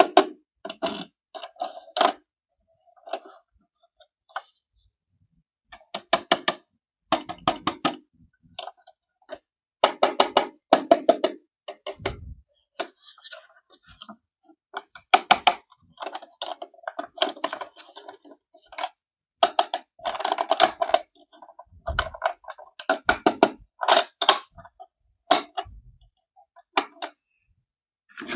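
Plastic toy car and packaging being handled, giving short clusters of quick clicks and rattles with brief pauses between them.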